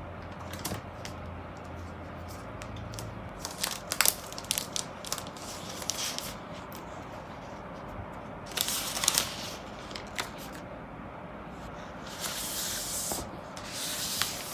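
Plastic wrapping on a laptop box being torn and peeled away, with rustling and small handling clicks. There are crackly bursts of tearing about two-thirds of the way in and again near the end.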